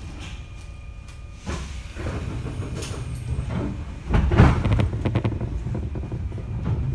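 Interior of a Jomo Electric Railway 700-series electric train standing at a stop. About four seconds in there is a loud clunk and rush of noise as the sliding doors close, and the train then starts to pull away.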